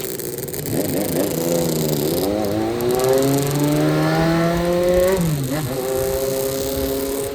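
Vintage Suzuki motorcycle engine under way and accelerating. Its pitch climbs for about three seconds, drops sharply at a gear change a little after five seconds in, then holds steady.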